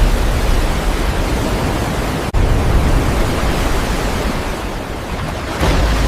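Loud, steady rush of surging sea water with a deep rumble, as from huge waves. It breaks off for an instant about two seconds in and swells again near the end.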